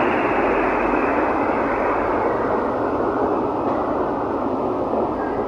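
WAP7 electric locomotive standing at the platform with its cooling blowers running: a steady rushing hum that gradually turns a little duller.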